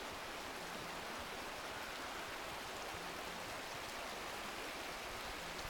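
Steady, even outdoor hiss during snowfall, with no distinct events.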